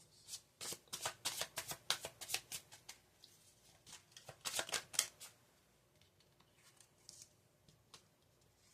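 Tarot cards being shuffled and handled: a quick run of card clicks for about three seconds, another burst around four and a half seconds in, then a few scattered light taps.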